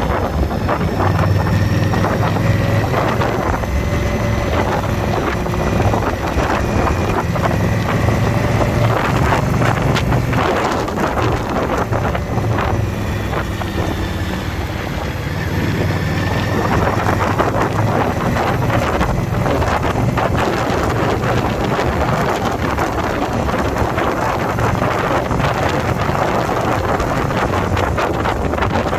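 Indian V-twin motorcycle engine running steadily while riding at speed, with wind rushing over the microphone.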